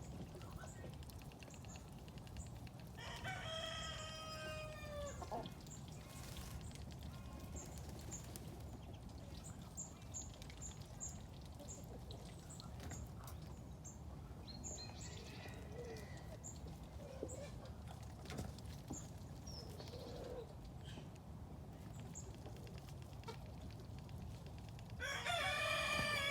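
A rooster crowing twice: one long crow about three seconds in and a louder one near the end, each falling in pitch at its close.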